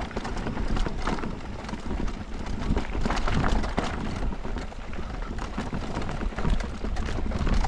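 Electric mountain bike descending a rough downhill trail: steady wind buffeting on the action-camera microphone, with tyre noise on dirt and frequent knocks and rattles as the bike hits bumps.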